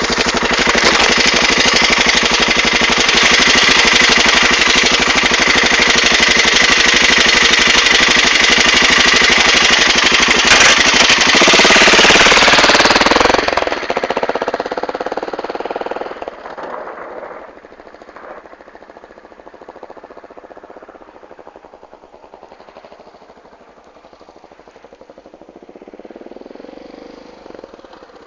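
BMW F650GS motorcycle with an aftermarket Scorpion exhaust, running loud and close for about half the time, then dropping sharply in level as it rides away. The quieter engine that follows rises and falls in pitch through the gears.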